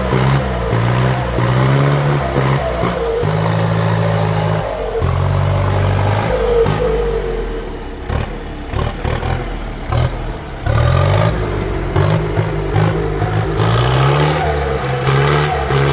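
Heavy diesel engines of the tractors and stuck truck revving under load in mud, the engine note rising and falling again and again, dropping back for a few seconds in the middle.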